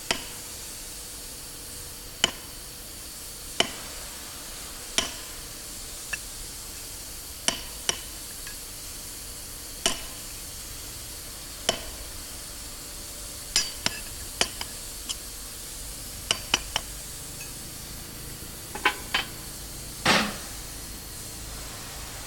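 Sharp metal-on-metal knocks with a brief ring, about twenty of them at irregular gaps of a fraction of a second to two seconds. Some come in quick pairs, and the heaviest and longest comes near the end.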